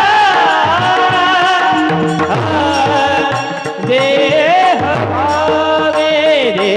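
Marathi devotional bhajan sung by a solo voice with gliding, ornamented phrases over held accompaniment tones and steady percussion strokes.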